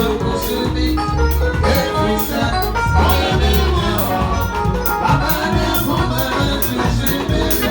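Loud dance music with heavy bass and a steady beat, played through a PA sound system at a sound check.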